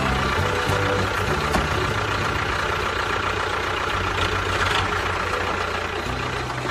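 An engine idling steadily with a fast low pulse. Background music fades out in the first second and a half and returns near the end.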